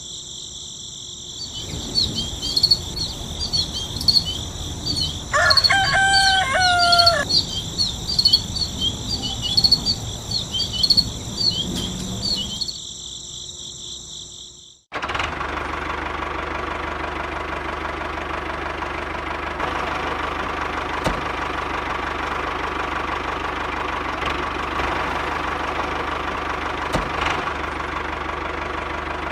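Crickets trilling with birds chirping and a rooster crowing once, over some uneven knocking. About halfway through it cuts suddenly to the steady running drone of a small motor, most likely the DIY mini tractor's.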